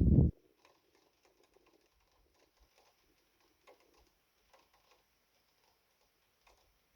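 Light rain: faint, scattered drips tapping irregularly. A loud low rumble cuts off abruptly right at the start.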